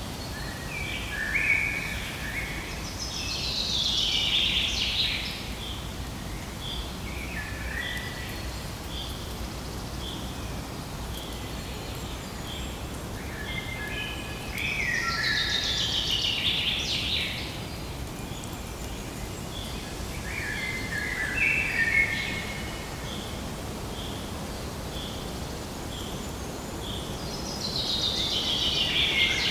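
Birds singing: a bird repeats a song phrase of quick notes falling in pitch several times. Behind it, a short high note repeats steadily about once a second, over a low outdoor background hiss.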